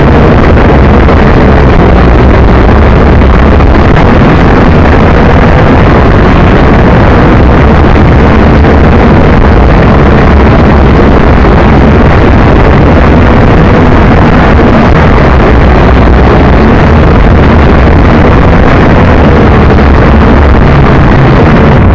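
JJRC H12C quadcopter's four small electric motors and propellers whining in flight, very loud and close, as picked up by its onboard camera's microphone, with wind buffeting that microphone. The pitch of the motors wavers up and down as they work against the gusts.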